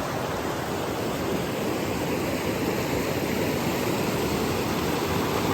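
Rushing water of a fast-flowing creek, a steady unbroken rush.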